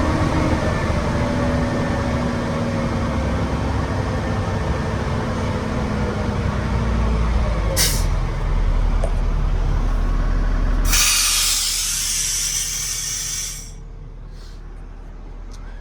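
Kenworth T270 dump truck's PACCAR 8.3-litre diesel running, with a whine that slides down in pitch over the first several seconds. About eight seconds in comes a short hiss of air, and a few seconds later a loud blast of released air lasting about two and a half seconds, after which the engine settles to a quieter idle.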